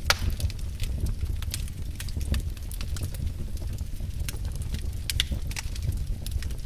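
Wood fire burning in a fireplace, crackling and popping over a steady low rumble of flames, with a sharp pop right at the start and another about five seconds in.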